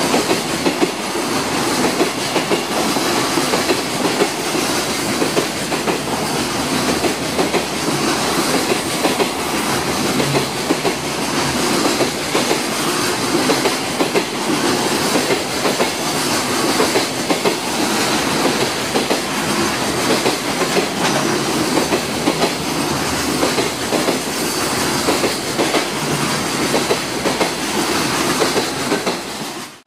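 JR Freight container flat wagons rolling past on the rails: a steady, dense rumble of wheels with a continuous clickety-clack over the rail joints.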